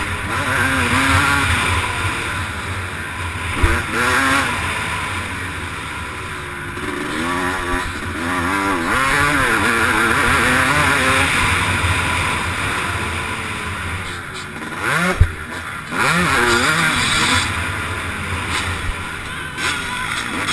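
Motocross bike engine revving up and down hard through the gears while racing, with steady wind rush on the camera microphone. Two sharp knocks stand out, about four seconds in and about fifteen seconds in.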